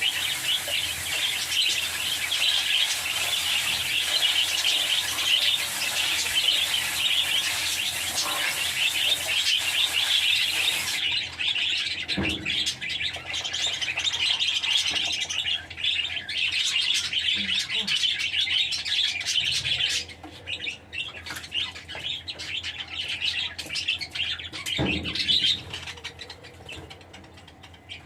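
Lovebirds chirping and chattering, a dense run of rapid high chirps that thins out and gets quieter about twenty seconds in. Two soft low thumps are heard along the way.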